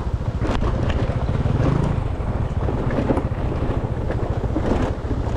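Moped riding over a rough, broken road: steady wind buffeting the microphone over the scooter's engine, with scattered knocks and rattles from the bumps.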